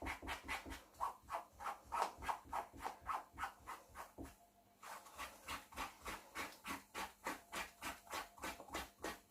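A stained bedsheet being rubbed by hand in quick, even strokes, about four a second, with a short break about four seconds in. The sheet is being scrubbed to work out a blood stain treated with hydrogen peroxide.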